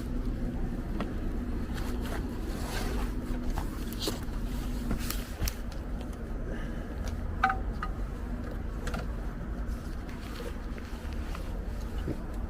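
Steady low rumble with a faint hum in the first few seconds, and scattered light clicks and taps, the sharpest about seven seconds in.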